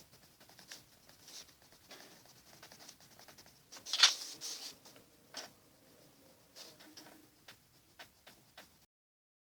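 Pencil strokes scratching on paper in short, irregular bursts, with one louder scrape or knock about four seconds in. The sound cuts to dead silence shortly before the end.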